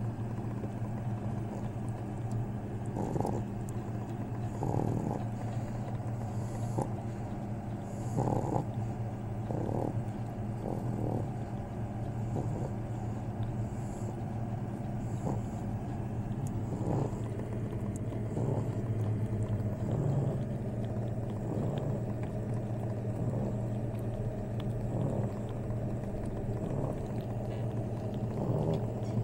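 Pug puppies making short, irregular sounds every second or two over a steady low hum.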